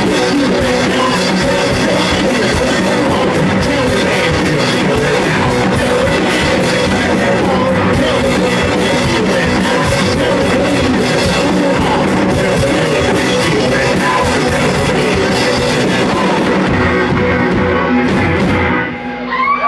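Live rock band playing an instrumental passage, electric guitars and drum kit loud and dense, the music breaking off about a second before the end.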